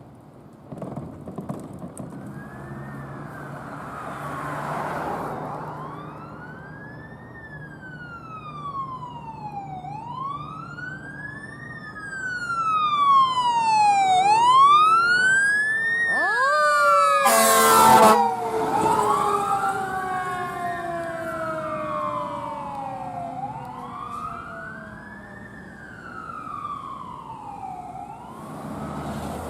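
Emergency vehicle siren wailing, rising and falling about every four seconds, with a second siren's pitch sliding down near the middle. A loud horn blast lasting about a second comes a little past halfway, over a heavy engine running underneath.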